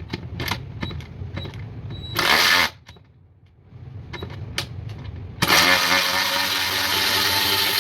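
Cordless 3/8" electric ratchet motor whirring in bursts: a short run about two seconds in, then a longer steady run starting about five and a half seconds in. Before the runs there are small clicks and knocks of the tool being handled.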